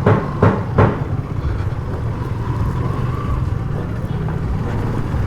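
Motorcycle engine running steadily while riding, with wind buffeting the microphone; a few sharp knocks in the first second.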